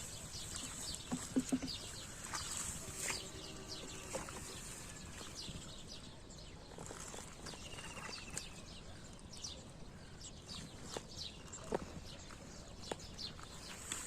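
Small birds chirping and calling in scattered short notes, with a brief trill a little past the middle, over a faint outdoor background.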